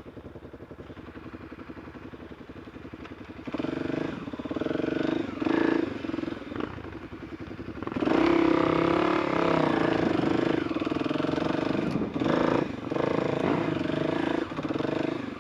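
Enduro motorcycle engine riding off-road: it runs low at first, then takes short bursts of throttle, and from about halfway on it is held at higher revs under load with a couple of brief let-offs.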